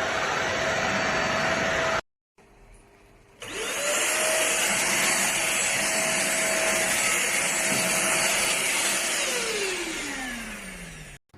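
Deerma DX700S handheld cyclone vacuum cleaner's motor running with a steady whine, cut off abruptly about two seconds in. It starts again a little later, the whine rising quickly to speed and holding steady. Near the end it is switched off, the whine falling as the motor spins down.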